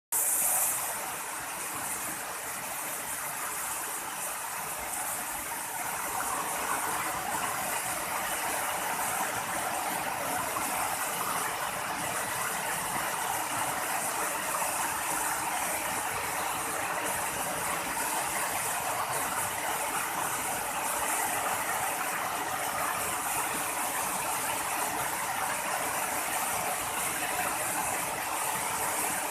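Water from a natural spring falling and splashing in a steady, even rush.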